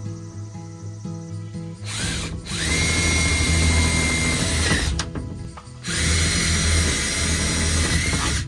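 Power drill running in two runs of a few seconds each, with a steady high whine over its motor noise. The runs are separated by a short pause.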